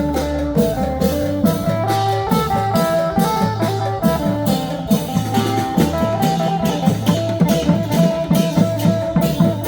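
Thai festive band music: a steady, fast drumbeat under a melody of held notes and a pulsing bass line.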